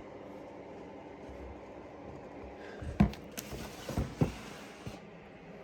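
A few light knocks and clicks, one about three seconds in and two close together about a second later, over a quiet steady room background.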